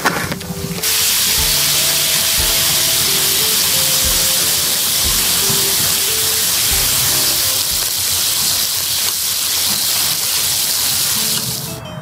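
Food sizzling loudly on a hot pan as a fresh batch goes on to cook, starting suddenly about a second in and cutting off near the end. Background music plays underneath.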